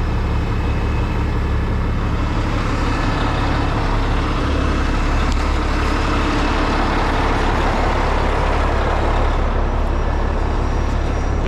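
Heavy rotator tow truck's diesel engine running steadily, a constant low hum with no change in pace.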